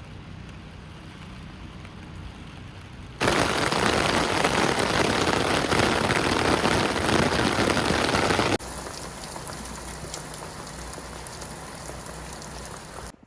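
Rain falling steadily, in three spliced stretches: moderate at first, much heavier from about three seconds in, then lighter again about halfway through.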